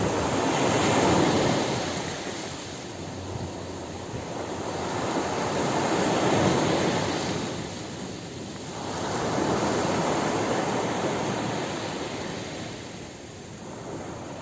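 Ocean surf breaking on a beach: a steady wash of waves that swells and fades in three slow surges, each several seconds long.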